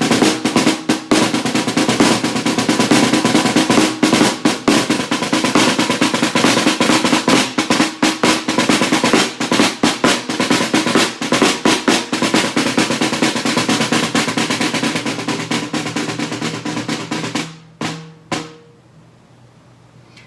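Snare drum (tarola) played with sticks: a long stretch of fast rolls and strokes, ending with two separate hits near the end.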